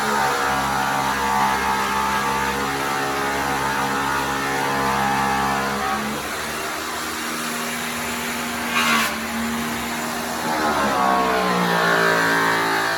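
Electric angle grinder polisher spinning an airway buff on an aluminum truck wheel, a steady motor hum whose pitch drops and settles again about eleven seconds in. A short hiss comes about nine seconds in.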